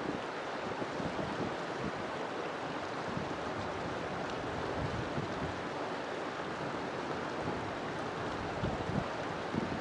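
River water flowing steadily over stones, a continuous rushing with small irregular splashes and gurgles.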